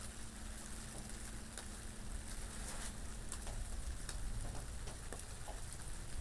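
Rain falling steadily, with many individual drops pattering close by over a low rumble of wind.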